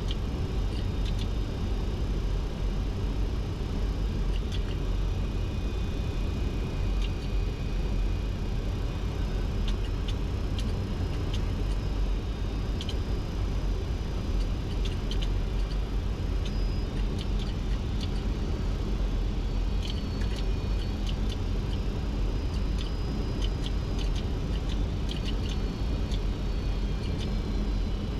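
Steady flight-deck noise of a Boeing 737-200 on final approach with gear down and flaps 30: an even rumble of airflow and JT8D engines, with faint short high tones and ticks scattered through it.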